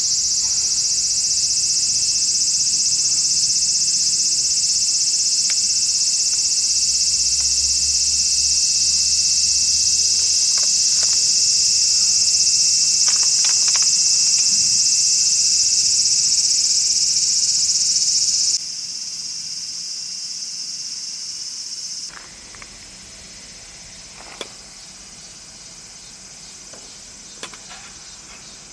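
Dense, steady, high-pitched chorus of chirping insects. It drops sharply in level about 18 seconds in and again about 22 seconds in, with a few faint ticks in the last few seconds.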